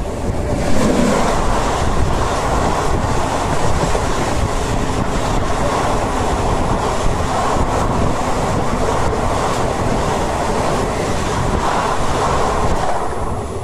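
Passenger express train running at speed, heard from on board: a steady rumble with the wheels clattering over the rail joints. A brighter, harsher clatter comes in about half a second in and fades near the end.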